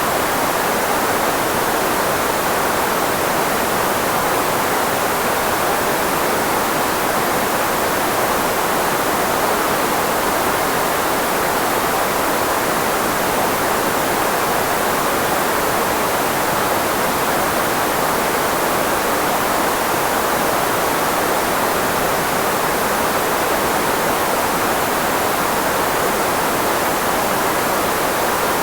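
Steady synthetic white noise, filtered to mask the frequencies of the human voice, so that most of it sits in the middle range with little bass: an even, unchanging hiss.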